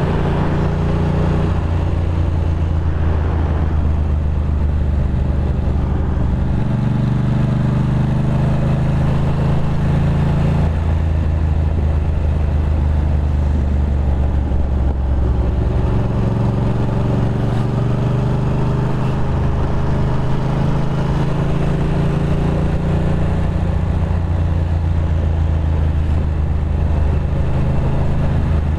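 Ducati Monster 620's air-cooled V-twin engine running at steady low cruising revs, its pitch shifting a few times as the revs change.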